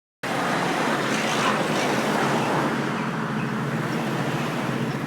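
Dead silence that breaks a moment in into loud, steady rushing noise with no rhythm or pitch, like outdoor traffic or wind noise.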